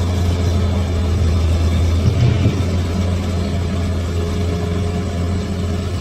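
Bulldozer's diesel engine running steadily at a low, even drone.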